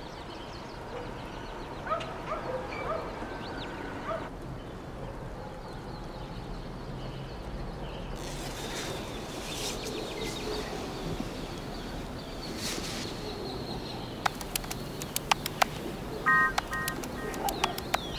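Outdoor ambience of birds calling and chirping over a steady background wash, with a run of sharp clicks near the end.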